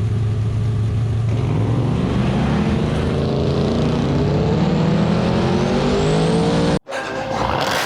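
Drag-racing car engine at full throttle, pitch holding for about a second and then climbing steadily as the car accelerates. It cuts off abruptly near the end, where a different sound takes over.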